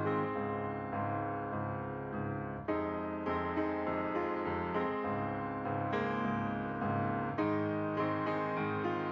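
Background piano music, soft and steady, with notes struck about twice a second.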